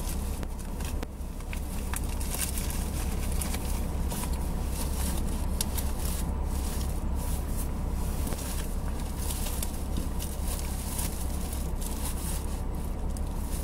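Steady low rumble of a car idling while it warms up, with intermittent rustling and crinkling of packages being handled and rummaged through.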